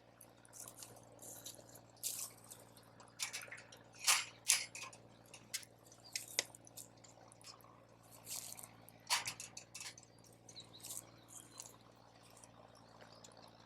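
Wood campfire crackling, with irregular sharp pops and snaps, the loudest about four seconds in and again about nine seconds in.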